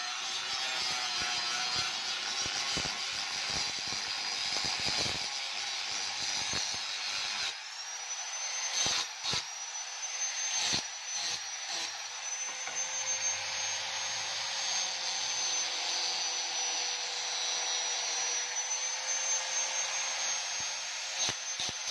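Knife blade being ground: a steady grinding hiss. About seven seconds in, a thin high whine rises and then holds steady.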